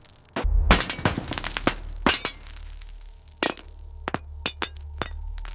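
A run of sharp clinks and cracks, several in quick succession, over a low steady hum that comes in about half a second in.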